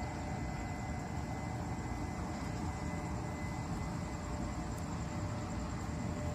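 Steady rumble and hum of a Taiwan Railway train at a station platform, with a thin steady whine over it.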